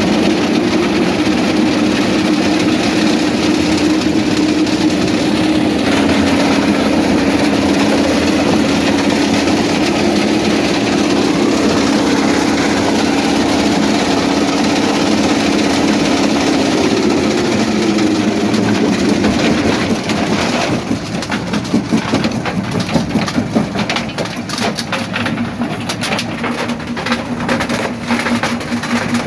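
Quarry jaw crusher running under load with a steady mechanical hum and grinding. From about two-thirds of the way in, the hum gives way to a rapid run of sharp knocks and cracks as rock is broken in the jaws.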